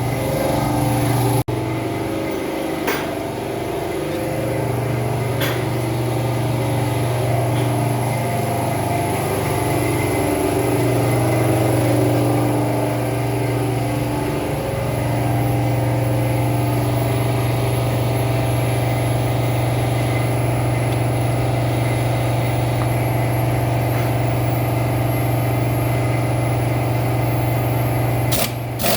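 A machine running steadily with a constant low hum. Near the end a quick series of sharp knocks begins.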